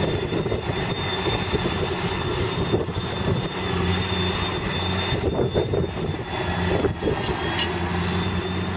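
Case tractor engine running steadily under load while pulling a plow, a constant low drone with a thin steady high whine over it.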